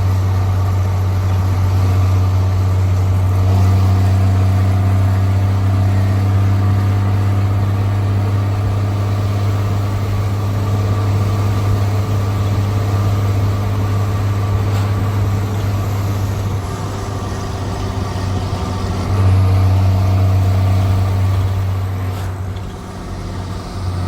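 Straight-piped Cummins C8.3 inline-six diesel in a school bus, running loud and steady under load with a deep exhaust note. It eases off about two-thirds of the way through, comes back on strongly a few seconds later, and eases off again near the end.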